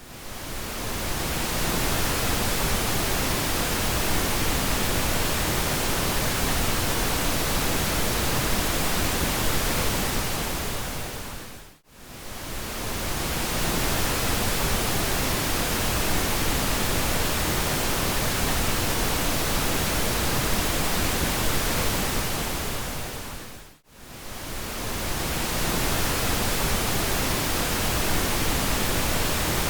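Steady pink noise, an even hiss across all pitches. It dips briefly to near silence and fades back in twice, about twelve seconds apart.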